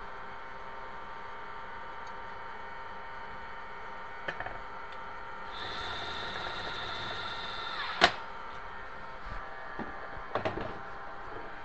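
Hardware being worked on while a kitchen pull-out basket's runner rails are fitted: a few light clicks, then a whirring mechanical sound of about two seconds with a steady high whine that ends in one sharp knock, followed by a few lighter knocks, over a steady background hum.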